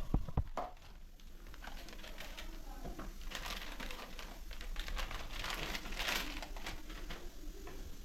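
Plastic crinkling and rustling with scattered clicks and a few knocks near the start, from the parts of an RO water filter being handled during servicing.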